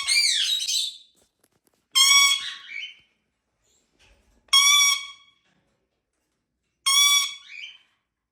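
Indian ringneck parrot giving four loud calls about two and a half seconds apart, each a short held whistling note that breaks off into a wavering tail.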